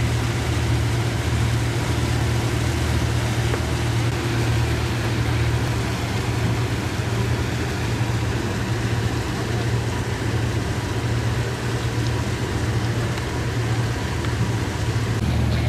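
A boat's engine running steadily: a constant low drone with a deep hum under a broad wash of noise.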